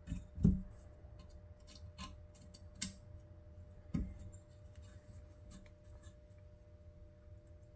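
Small screws being driven into a case by hand with a screwdriver: scattered clicks and light knocks, the loudest about half a second in, with faint scraping and ticking between.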